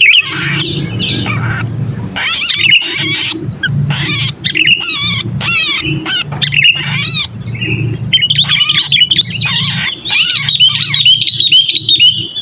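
Sooty-headed bulbuls giving rapid, harsh chattering calls in dense runs, growing busiest near the end: the 'kejepit' call of a bulbul held or trapped, used as a lure to bring wild bulbuls down. A steady low hum lies underneath.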